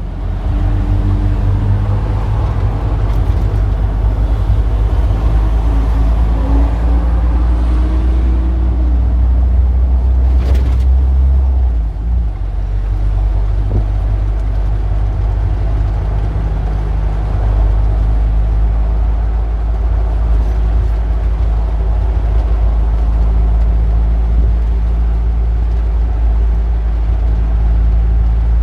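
Street traffic, dominated by the steady low rumble of a large engine running close by. The engine note shifts about twelve seconds in, and there is a brief sharp sound a little before that.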